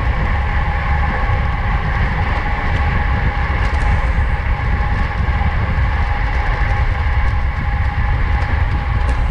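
Wind buffeting the microphone of a camera on a racing bicycle moving at speed, with a steady hum from the tyres and drivetrain.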